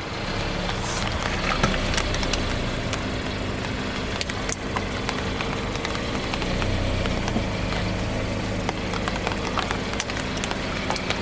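Car engine running slowly with many sharp cracks and crunches as objects are crushed under its tyres.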